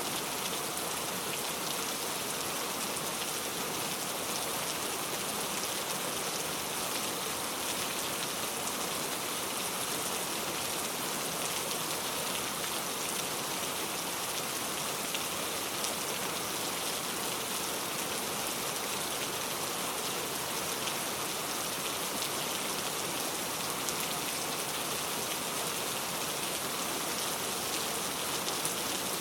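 Heavy rain falling steadily, a dense even hiss with the patter of drops hitting surfaces.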